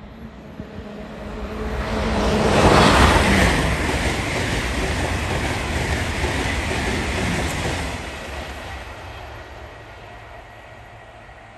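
A train passing by at speed: its rushing noise builds over about two seconds, peaks about three seconds in, holds for several seconds and then dies away.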